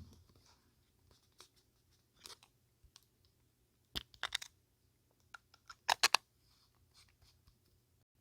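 Paper and stationery handled close to the microphone: scattered light crinkles and taps, with two louder crackling bursts about four and six seconds in.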